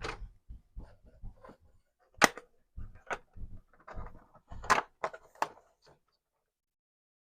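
Sharp plastic clicks and knocks amid softer handling noise as a Commodore 64 keyboard key switch is fitted back together after cleaning. The clicks come irregularly, the loudest about two seconds in and near the middle, and stop about six seconds in.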